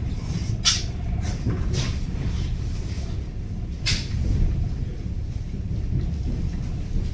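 Old electric commuter train moving, heard from inside the carriage: a steady low rumble, with several short sharp clacks and rattles in the first four seconds.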